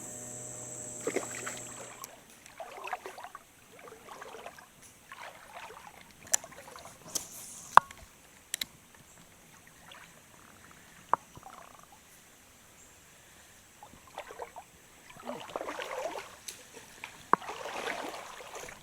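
Water sloshing and splashing in shallow river water, loudest in a run near the end, with a few sharp separate clicks. A high steady buzz is heard in the first couple of seconds.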